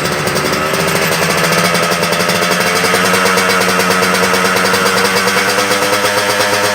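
Yamaha RX-King's two-stroke single-cylinder engine running through an aftermarket racing exhaust, a rapid steady beat whose pitch creeps slowly upward.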